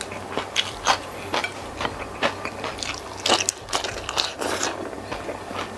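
Open-mouthed eating by hand of jumbo squid in chilli sambal: wet chewing, lip smacks and irregular sticky clicks, with fingers pulling at the saucy squid on the plate and a fresh bite going in about four seconds in.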